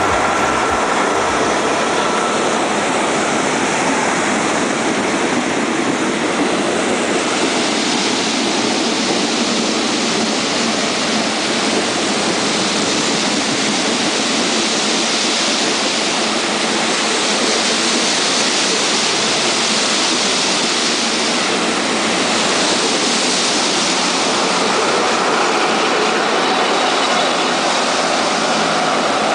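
Passenger train carriages rolling through floodwater covering the track: a loud, steady rush of churned and spraying water mixed with the train's running noise.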